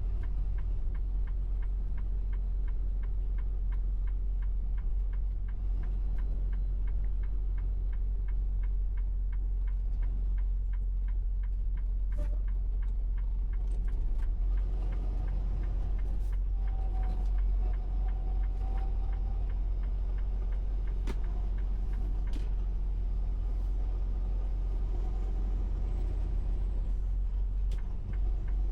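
Steady low rumble of a semi-truck's engine and road noise heard inside the cab. Over it a turn signal clicks regularly through roughly the first twelve seconds, then more sparsely, as the truck makes a right turn.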